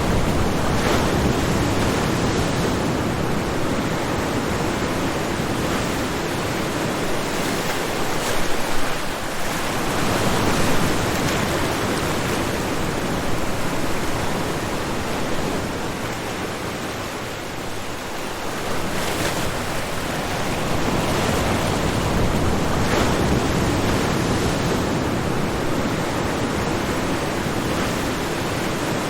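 Ocean surf breaking on a shoreline: a continuous wash of waves that swells and eases every few seconds.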